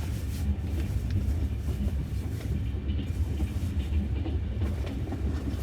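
Steady low rumble of a moving passenger train heard from inside a sleeper carriage, with a few faint ticks scattered through it.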